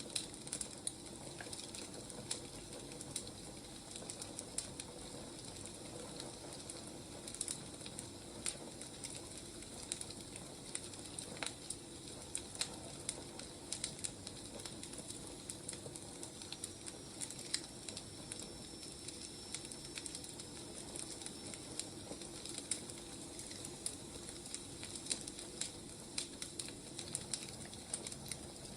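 Firewood burning, crackling with frequent irregular sharp pops over a steady soft hiss.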